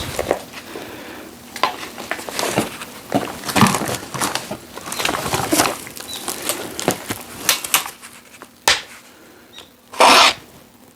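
Dry wood and twigs crackling and snapping irregularly as they are handled, with a louder rustling crunch near the end. No engine is running.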